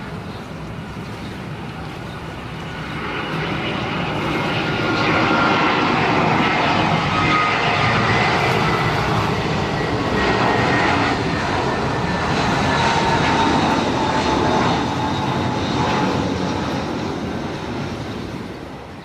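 Boeing 747-400 freighter's four turbofan engines as it comes in to land and passes close by. The sound swells over a few seconds, holds loud with slowly falling whining tones, then fades near the end.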